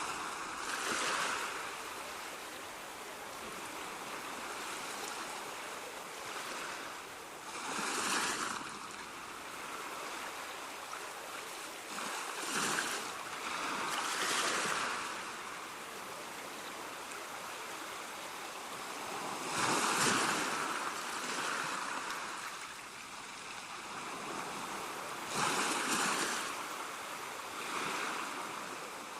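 Ocean waves washing onto a beach: a steady hiss of surf that swells with each breaking wave, roughly every five to seven seconds.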